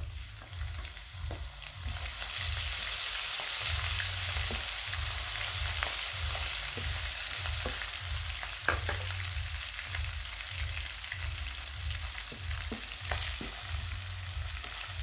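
Onions and garlic-ginger paste sizzling in hot oil in a frying pan. The sizzle swells about two seconds in as the paste hits the oil, with occasional knocks of a wooden spoon stirring against the pan.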